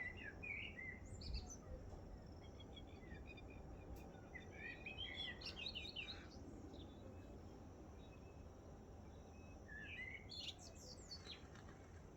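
Wild birds chirping and calling in scattered bursts at sunrise: a few calls at the start, a longer run of quick chirps about halfway through, and another cluster near the end, over faint steady low background noise.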